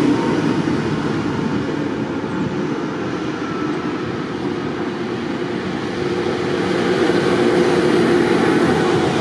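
Tractor engine running under way, a loud continuous drone that eases slightly in the middle and builds again near the end.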